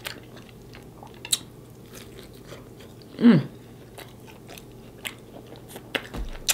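Close-miked chewing and mouth sounds of a person eating, with scattered wet clicks and smacks. One short hummed 'mm' about three seconds in.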